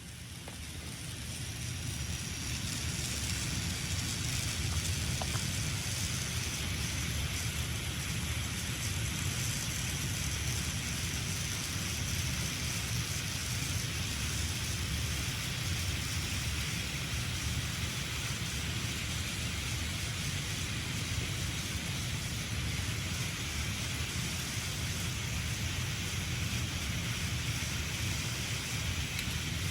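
Battery-powered Plarail Thomas toy train running on plastic track: a steady rumble of its small motor and wheels with a hiss over it. It grows louder over the first few seconds, then holds steady.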